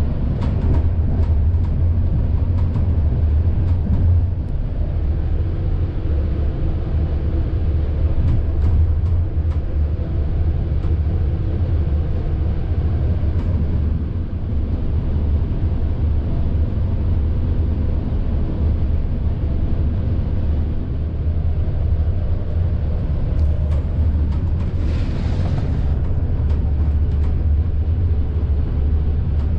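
A moving passenger train, a steady low rumble with a few faint clicks, and a brief hiss about 25 seconds in.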